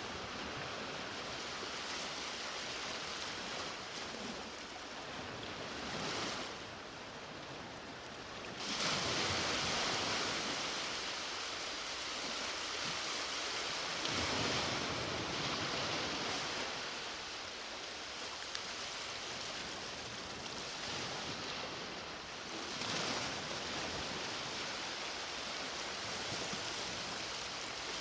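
Ocean waves breaking and washing up on a beach: a continuous hiss of surf that swells as each wave breaks, several times.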